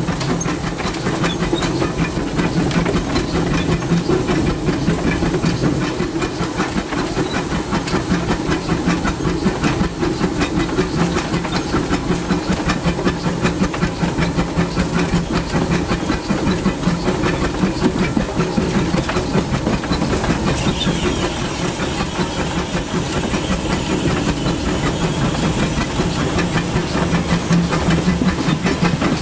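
Steam locomotive of the Disneyland Railroad running under way, heard from inside the cab: a steady hiss of steam over the rapid running clatter of the engine and wheels. About two-thirds of the way through, a sharper, higher steam hiss joins in.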